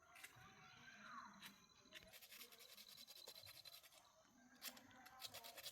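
Faint rapid scratching, like scrubbing or brushing, with a few sharper clicks near the end.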